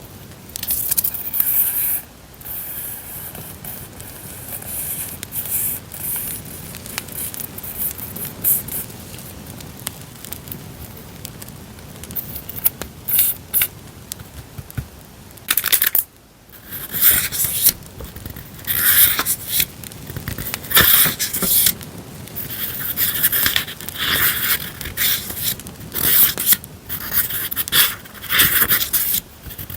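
Paper journal-decorating supplies handled by hand: sheets and packaging rustling and scraping in irregular bursts, with a short lull partway through. A crackling campfire sound track runs underneath.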